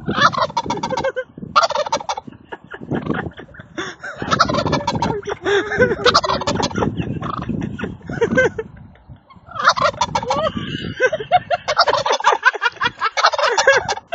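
Turkey gobbling loudly and repeatedly, in several long runs of rapid calls with short pauses between them. It is a tom challenging what it takes for a rival, its own reflection in a car.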